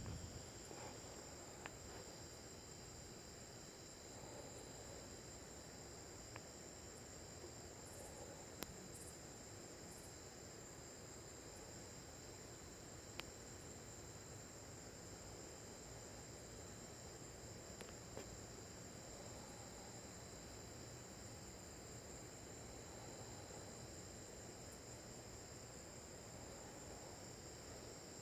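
Crickets chirring steadily in a continuous high, even trill, with a few faint clicks.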